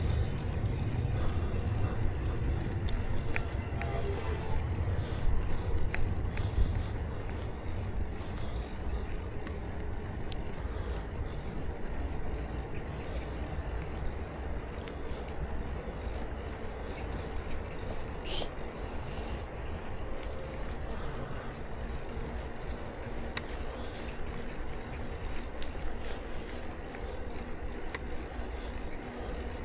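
Bicycle riding: a steady low rumble of wind on the microphone and tyres rolling on the road, heaviest in the first several seconds, with a few faint ticks and one brief squeak partway through.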